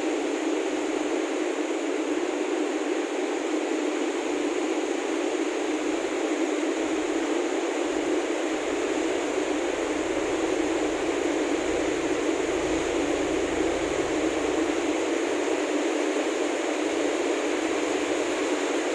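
Electric motor driving a lube oil pump, running steadily: an even, constant rushing noise with faint steady high-pitched tones above it.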